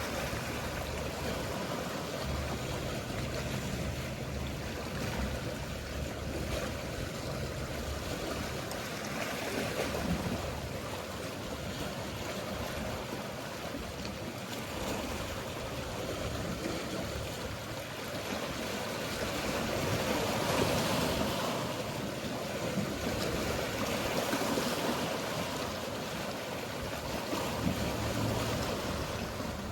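Mediterranean sea waves washing steadily, swelling a little louder a few times, with the low hum of a boat engine at times.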